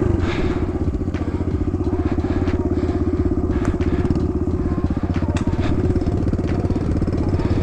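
Kawasaki KLX110 dirt bike's small single-cylinder four-stroke engine running at low, steady revs, with a few short clicks and crunches over it.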